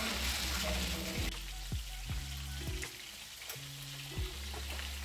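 Oil sizzling as flour-coated lamb shanks fry in a stainless steel pan, the sizzle easing after about a second, with background music.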